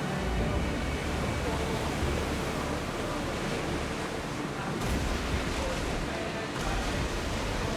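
Steady rushing of sea water and wind aboard a moving ship, with a low rumble underneath that swells and fades a few times.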